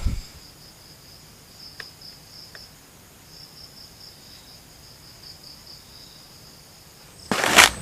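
An insect trilling in a high, rapidly pulsing chirp, with a couple of faint clicks. Near the end comes a loud rustling crunch, like steps pushing through wet undergrowth.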